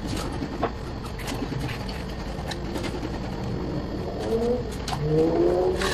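Workshop background with a steady low hum and scattered light clicks and taps, and a few short, low bird calls near the end.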